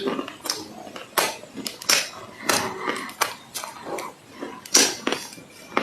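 Close-up crunching of baked clay being bitten and chewed: a string of irregular, sharp, crisp crunches, about one or two a second.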